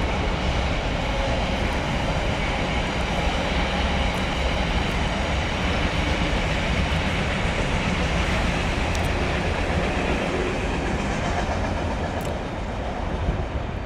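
Freight train running through a station without stopping, its wagons rolling past with a steady noise of wheels on the rails. The noise eases off a little near the end as the train clears.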